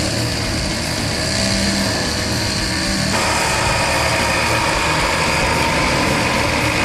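Off-road 4x4 vehicle engine running steadily, with an abrupt change in the sound about three seconds in.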